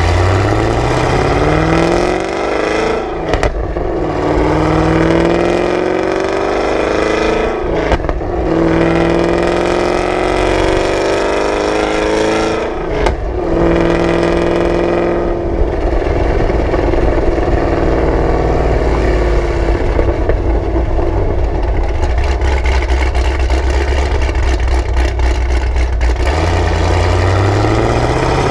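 Chevrolet Camaro ZL1's supercharged V8 through a Corsa exhaust, heard from the rear: it accelerates up through the gears, the pitch rising and then dropping at each upshift about every four to five seconds. It then settles into a steady drone with a run of crackles and pops, and starts climbing again near the end.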